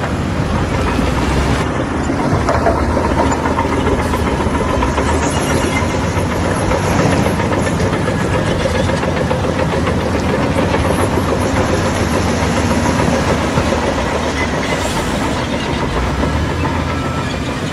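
Bulldozer running under load, its diesel engine mixed with the clanking rattle of its steel crawler tracks. A reversing beeper starts sounding near the end.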